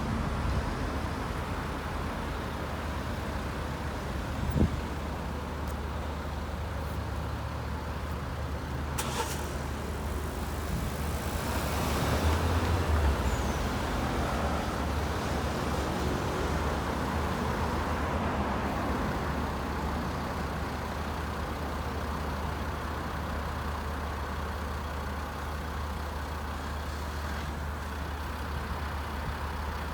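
Road traffic at a busy junction: buses, cars and trucks passing with a steady low engine rumble. A short sharp knock comes about four and a half seconds in, a brief hiss near nine seconds, and one vehicle passes loudest around twelve seconds.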